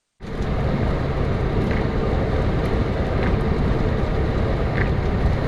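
Steady road and engine noise of a moving car, cutting in abruptly a fraction of a second in, with a few faint ticks.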